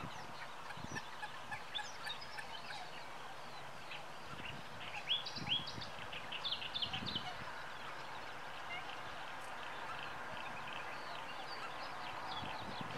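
Rapid, high-pitched bird peeps and chirps, busiest around five to seven seconds in, over a light steady background with a few low thuds.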